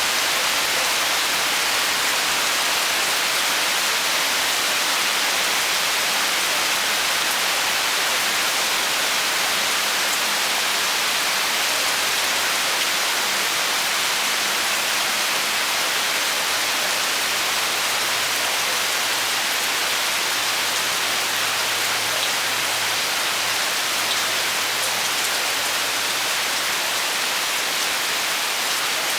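Steady rain falling, an even hiss of drops on surfaces with no let-up. A faint low hum sits underneath through the middle and later part.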